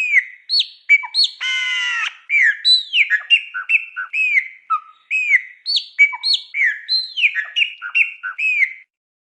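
A songbird singing a fast, varied song of short, clear whistled notes that mostly arch up and slur down, with one harsh buzzy note about a second and a half in. The song stops abruptly shortly before the end.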